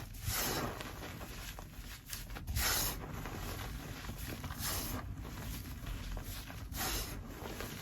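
Gym chalk and kinetic sand being chopped and crushed for ASMR: a steady crumbly crackling, with a louder gritty crunch about every two seconds.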